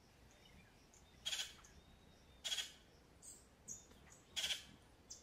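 A bird repeating short calls every second or two, with fainter chirps in between, over faint background noise.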